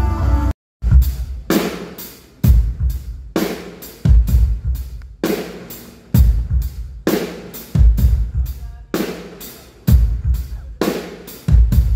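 Band music cuts off just after the start, then a drum kit is played alone for a sound check: a steady beat of bass drum, snare and cymbals.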